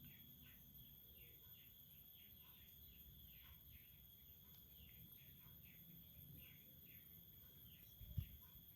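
Near silence with a faint background of steady high insect-like tones and soft, repeated short chirps, about two a second. A single low thump comes near the end.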